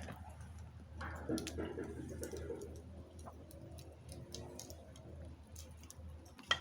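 Small wood fire crackling: scattered, irregular pops and ticks, with one sharper pop near the end.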